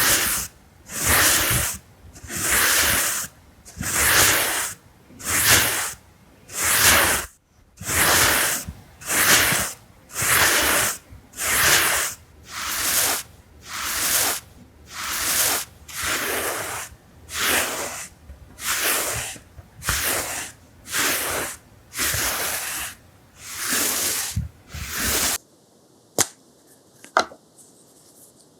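Close-miked ASMR hissing strokes repeat evenly, about one every 0.8 s, then stop abruptly about 25 seconds in. A few sharp clicks follow near the end.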